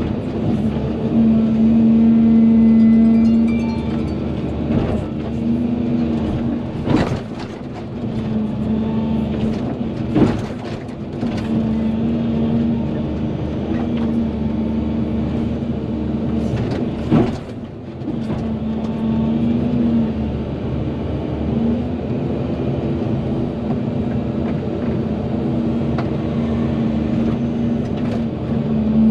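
Volvo EC220DL excavator's diesel engine running under load, its drone swelling and easing as the hydraulics are worked. Three sharp knocks, one about a quarter of the way in and two more before the middle, from the machine or its bucket.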